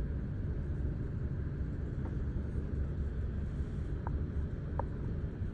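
Steady low rumble of a car idling in stopped traffic, with two brief faint high chirps about four and five seconds in.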